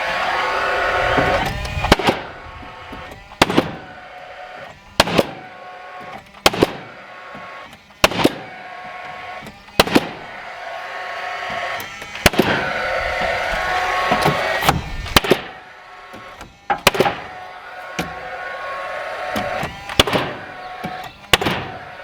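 Nail gun driving nails through ForceField wall sheathing into the framing: a long string of sharp, single shots, one every second or two, sometimes two close together. Under them runs a steadier sound with a few held tones, loudest at the start and again about midway.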